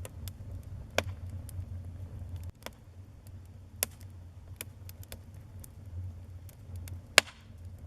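Wood fire in a fireplace crackling: scattered sharp pops and ticks over a low steady rumble, with one loud snap about seven seconds in.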